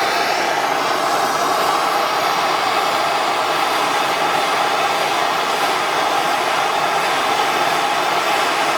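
Handheld gas torch running with a steady, even hiss while burning the old rubber gasket out of a stove part.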